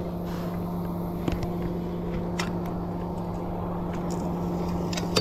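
A boat motor running steadily, giving a constant low hum, with a few faint clicks.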